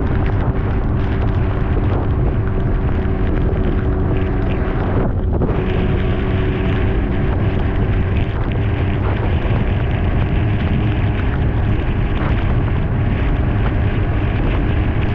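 2018 BMW S1000RR's inline-four engine running steadily at riding speed, with heavy wind noise on the microphone. The engine note dips briefly about five seconds in.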